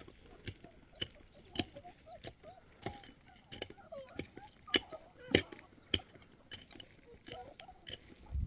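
A series of short, sharp knocks and clicks at an uneven pace, about one or two a second, the loudest a little after five seconds in.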